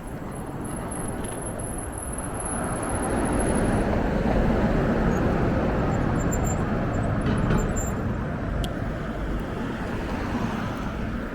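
Rush of wind and road noise from riding a bicycle, swelling louder for several seconds in the middle and then easing off.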